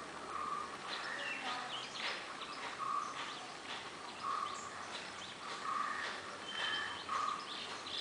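Birds calling: a short, even note repeated about every one and a half seconds, with quick higher chirps in between.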